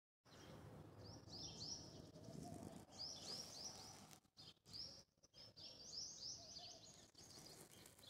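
Small birds chirping in quick runs of three to five short, high, falling notes, repeated several times over faint low background noise.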